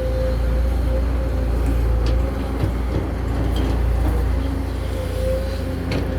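Backhoe excavator's diesel engine running steadily with a low hum and a steady whine over it, with a couple of short knocks.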